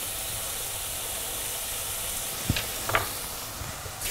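Tofu scramble with onion and tomato sizzling steadily in a non-stick frying pan, its water cooking off. Two light clicks about half a second apart in the second half.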